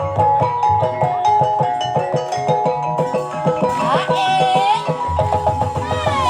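Gamelan music for an ebeg dance: quick interlocking struck metal or bamboo bars over low drum strokes. About four seconds in, a voice slides up and down over the ensemble, and it comes back near the end.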